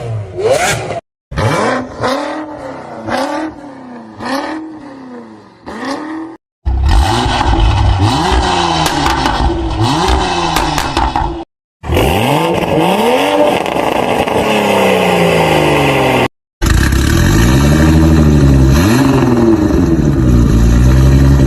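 Car engines revving through their exhausts, the note repeatedly rising and falling in short blips, in a run of separate clips with hard cuts about every five seconds. The first clip is quieter. The later clips are loud and deep, and one ends with a long falling rev.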